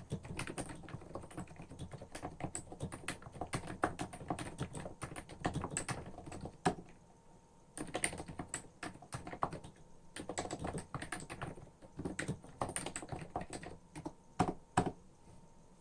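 Typing on a Hansung CHF7 OfficeMaster electrostatic capacitive keyboard with 50 g switches and lubed stabilizers: a rapid run of keystrokes, a short pause about seven seconds in, a few sharper strokes near the end, then it stops.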